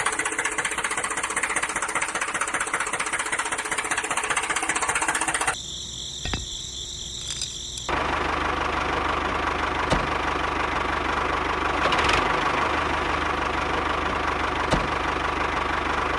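A small motor running with a fast, steady clatter. It drops away about five seconds in and starts again a couple of seconds later, running steadily with a low hum.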